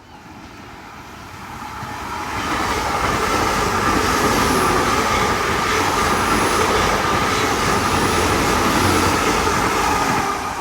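GWR Class 800 bi-mode train passing through at speed on its diesel engines, with the rumble of its wheels on the rails. It builds over about two seconds, stays loud and steady, and falls away near the end.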